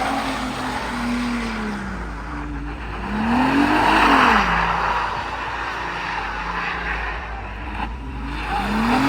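A car sliding with its tyres squealing while its engine revs up and back down, twice.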